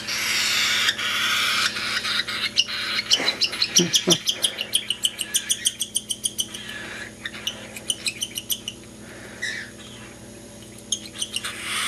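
Baby cockatiels giving food-begging calls: a raspy, hissing cry, then a fast run of high chirps, about eight to ten a second, that trails off into scattered chirps.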